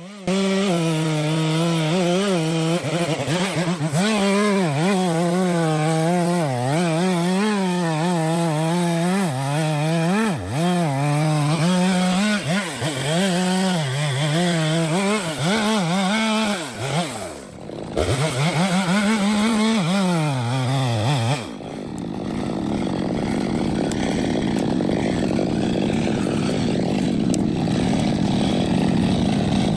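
A chainsaw engine running hard, its pitch wavering up and down as the saw works through the wood. It drops away briefly about 18 seconds in and then revs back up. A little past 21 seconds it gives way to a rougher, steadier sawing noise.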